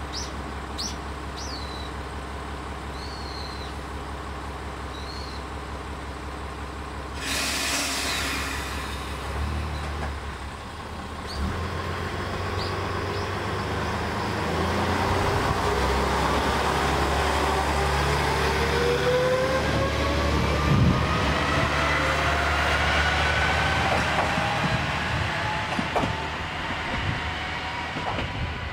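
Isumi 200-series diesel railcar idling, then a short hiss of air about seven seconds in. Its engine then picks up and it pulls away, the engine note rising steadily as it gathers speed.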